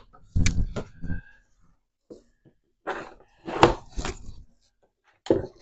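Wooden beehive frame bars knocking and clattering as they are handled and set down, a few separate knocks with short pauses between.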